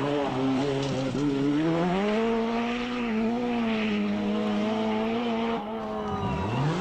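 Rally car engine revving hard, its pitch falling and climbing as it changes gear. Near the end the note cuts off and a fresh rising rev climbs from low.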